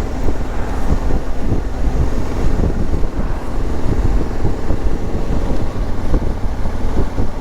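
Adventure motorcycle riding at a steady pace, its engine running under heavy wind buffeting on the microphone, which comes in irregular low rumbling gusts.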